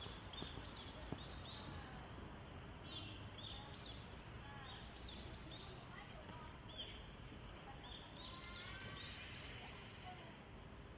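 Small birds chirping, many short high calls repeating irregularly, faint over a steady low outdoor hum.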